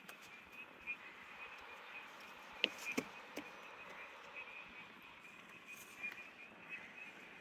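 Faint, steady chorus of frogs calling in forest, a continuous pulsing trill held at one high pitch. A few sharp clicks break in about halfway through.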